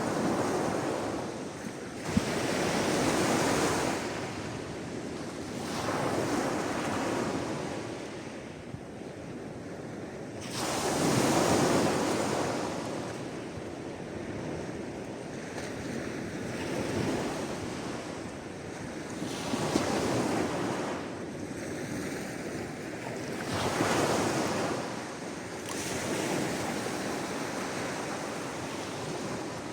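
Sea waves breaking and washing up the shore in slow surges every few seconds. Each surge rises to a rushing hiss and falls away, the loudest about a third of the way in.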